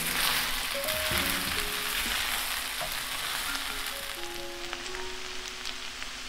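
Ground beef, rice and vegetables sizzling in a stainless steel skillet as a wooden spatula stirs them, the sizzle growing quieter in the second half. Background music with held notes plays throughout.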